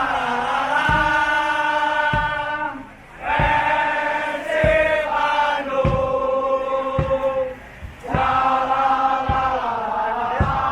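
Large crowd of football supporters singing a chant in unison, long held phrases broken by two short pauses, over steady low thumps about once a second.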